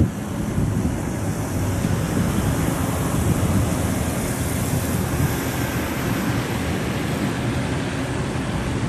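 Intercity passenger train rolling across a steel railway bridge: a steady rumble, with wind buffeting the microphone.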